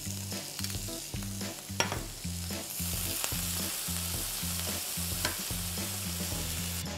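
Cucumber slices sizzling in a hot nonstick frying pan as they are turned with metal tongs, with a couple of light clicks of the tongs against the pan. The sizzle grows louder about halfway through and cuts off suddenly near the end.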